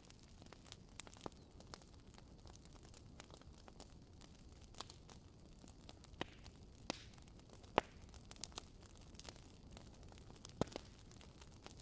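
Wood fire crackling in a fireplace: irregular sharp pops and snaps from the burning logs, a few louder ones among many small ticks, over a soft steady hiss.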